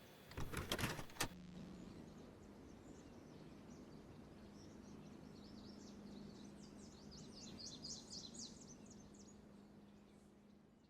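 A quick cluster of clicks or knocks, then faint background hiss with a low steady hum, and small birds chirping faintly in a quick run of high notes about seven to eight and a half seconds in before it all fades out.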